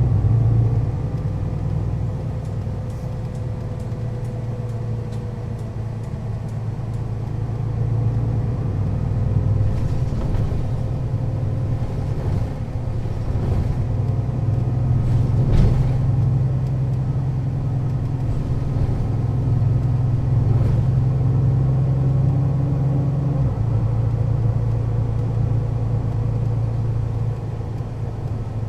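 Mercedes-Benz O 530 Citaro city bus's diesel engine running steadily while the bus is under way, a continuous low drone. The engine note changes about 23 seconds in.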